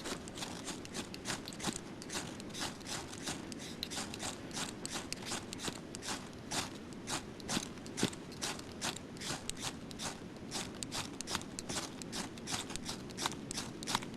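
Hand saw cutting through dry deadwood, rasping in quick, even strokes of about three a second.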